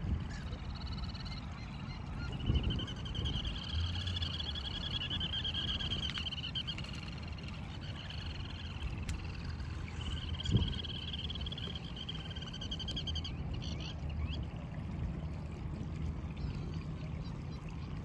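Shore birds calling in long, rapid, high trills of a few seconds each, twice, with shorter calls between, over a low rumble. A single sharp knock about ten seconds in.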